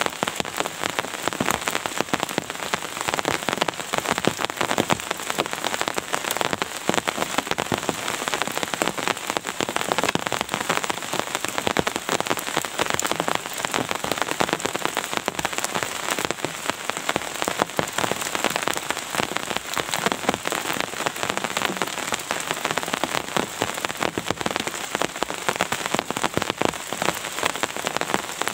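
Steady rain with a dense patter of individual drops striking a surface.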